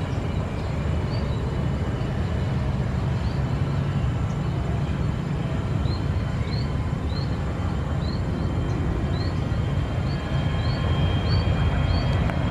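Jet airliner engines running, a steady low rumble, with a faint high chirp repeating about twice a second.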